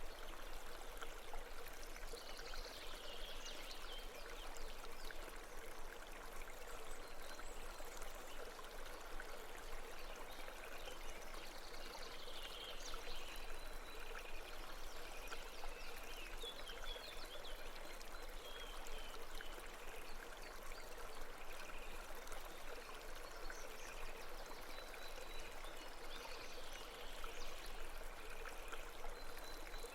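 A babbling mountain stream flowing steadily, with a few brief higher-pitched chirps now and then.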